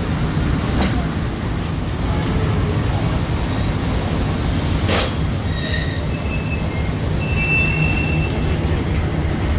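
Steady low rumble of a train standing or moving nearby, with several brief high-pitched squeals over it and a single sharp click about five seconds in.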